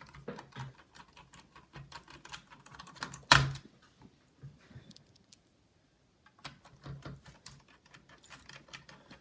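Small clicks and taps of a precision screwdriver and screws driven into a laptop's plastic chassis, with one louder knock a little over three seconds in.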